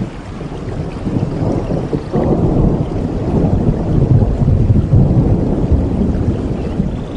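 Rain with a long roll of thunder that swells from about a second in and is loudest midway.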